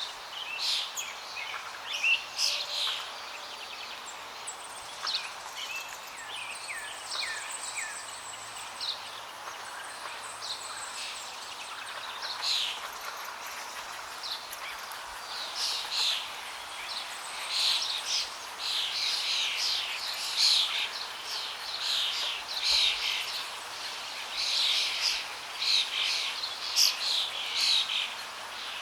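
Many songbirds chirping and singing over a steady rush of flowing water. The calls come thicker in the second half.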